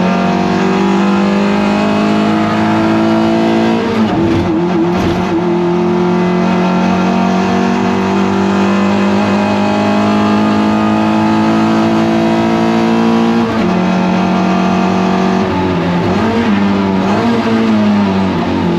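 Toyota MR2 race car's engine under load at steady, slowly climbing revs. The note breaks briefly about four seconds in and again about thirteen seconds in, then wobbles up and down and drops away near the end.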